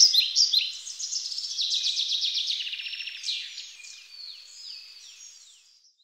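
Songbirds singing: a dense run of quick, high chirps and trills that thins out to a few downward-sliding whistles and fades away near the end.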